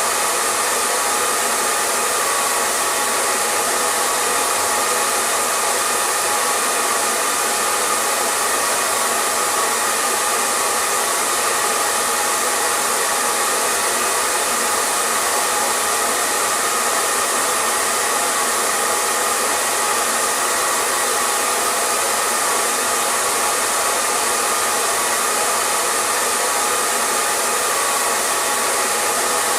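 Electric hair dryer running continuously at a steady speed: an even, unbroken hiss of blown air with a faint steady hum from the motor and fan.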